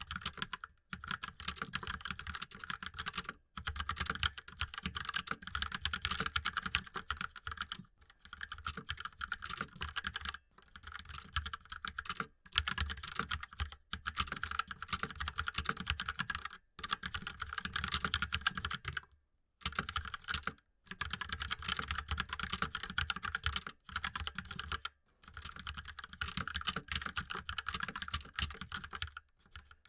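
Fast typing on a mechanical keyboard: steady runs of rapid key clicks broken every few seconds by brief pauses, the longest about two-thirds of the way through.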